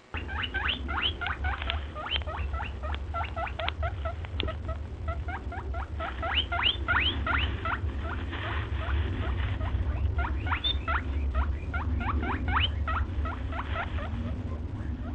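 Rapid, short, rising squeaks or chirps from a small animal, several a second in irregular runs, over a steady low rumble.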